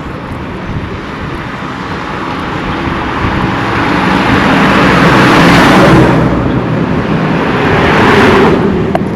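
Motor vehicles passing close by on a newly paved road, engine and tyre noise. The sound builds up over several seconds to its loudest about six seconds in, swells again around eight seconds, then falls away sharply near the end.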